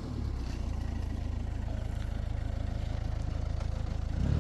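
An engine running at a steady idle, a low, even putter.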